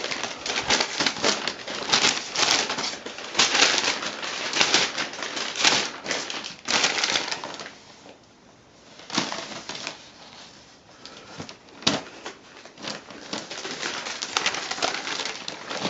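Newsprint flyer paper rustling and crinkling in irregular bursts as a cat bats and grabs at it, with a quieter lull about halfway through and a sharp crackle later on.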